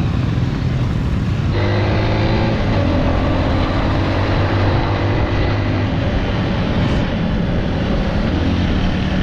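A 150cc Honda dirt bike's engine running under way, its note wavering with the throttle, under heavy wind rush on the microphone. The sound changes abruptly about one and a half seconds in.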